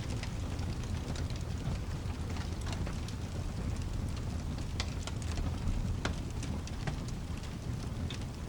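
Ambient mix of steady rain over a low, continuous rumble, with a wood fire's sharp crackling pops scattered through it.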